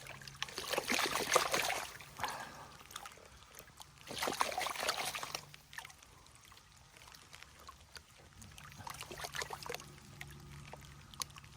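Creek water splashing and pouring in three short spells, as gravel and water are worked by hand in a shallow creek.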